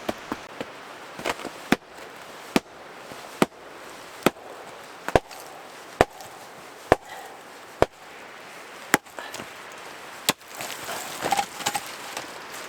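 Chopping with a hand tool: a steady run of about ten sharp strikes, roughly one a second, followed by looser scraping and rustling near the end.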